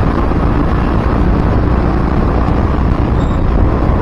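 Steady road noise of a vehicle moving through city traffic, with low rumbling wind buffeting on the microphone.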